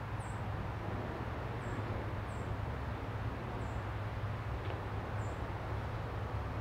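Steady low hum and hiss of outdoor background noise, with a small bird giving five short, very high, falling chirps spaced about a second apart.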